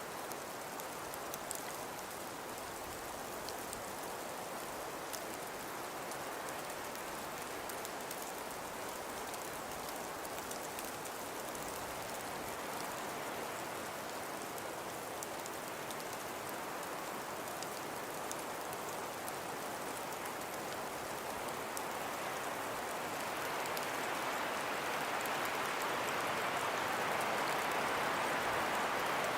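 Snowstorm ambience of wind and falling snow: a steady, dense hiss with faint fine ticks, swelling louder about 23 seconds in.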